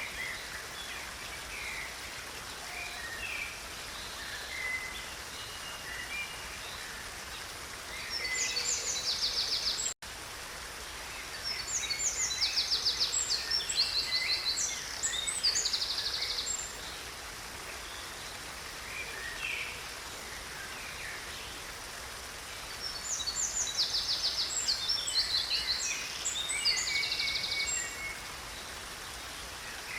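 Stream water flowing steadily while songbirds sing: scattered chirps throughout and three longer bouts of fast, high trilling song. The audio drops out for an instant about a third of the way in.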